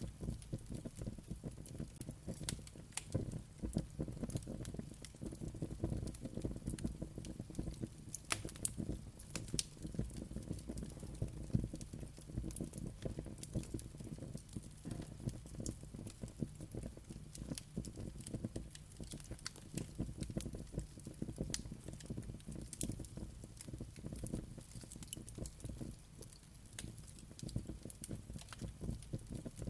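Wood fire burning in a fireplace, with a steady low rumble of flames and frequent irregular crackles and pops.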